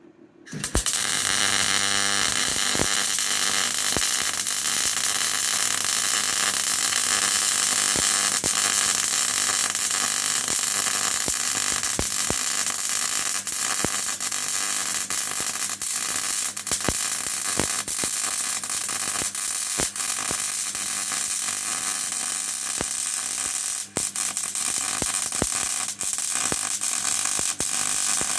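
Electric arc welding, most likely MIG, on steel plate: a steady crackling hiss that strikes up abruptly about half a second in and keeps going, with a short break near the end.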